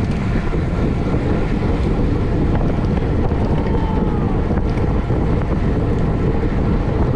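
Steady, loud wind rumbling over a camera microphone moving at bicycle race speed.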